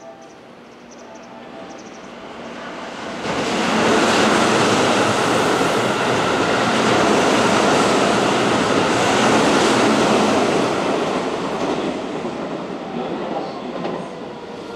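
Keihan electric commuter trains in a station, wheels on rail. About three seconds in, a loud rush of rail noise starts suddenly and holds for about seven seconds, then slowly fades as the 9000-series train runs in to the platform.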